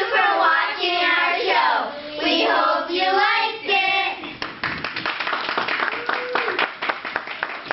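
Young children singing together for about four seconds. Then hand clapping breaks out and carries on.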